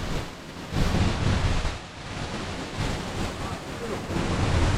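Wind buffeting the microphone in gusts, with loud surges about a second in and near the end, over the steady rush of a waterfall.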